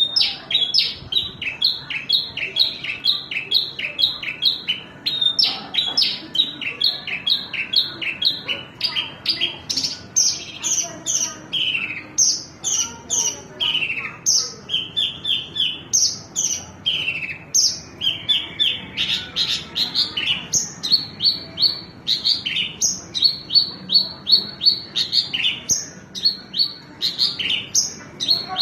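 Branjangan (Horsfield's bush lark) singing a long, unbroken song of rapid, short chirping notes, about three a second, with the phrases shifting in pitch and pattern as it goes.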